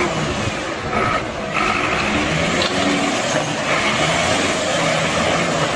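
Heavy truck engine running amid loud, steady road and wind noise.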